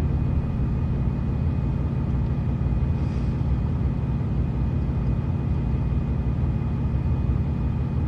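Truck engine idling: a steady low rumble heard from inside the cab.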